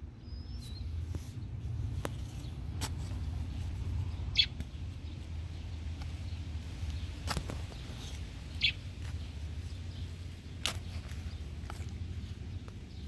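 A bird gives two short high chirps, about four seconds and about eight and a half seconds in, over a steady low rumble. Several sharp clicks are scattered through.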